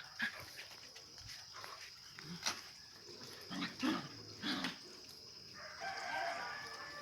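Animal calls: a few short calls a little past the middle, then a longer drawn-out call near the end, over a steady high-pitched whine.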